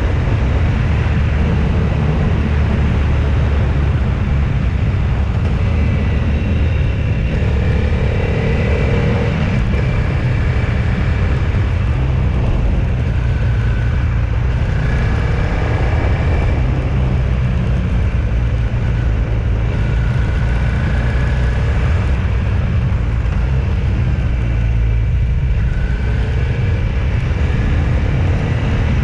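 Steady engine and road noise of a vehicle on the move, a continuous low rumble that neither rises nor falls.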